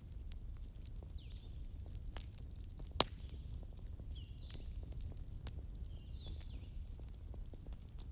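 Wood campfire crackling, with scattered sharp pops and a louder pop about three seconds in, over a low steady rumble. Short chirping bird calls repeat every second or two in the background, with a brief high trill near the end.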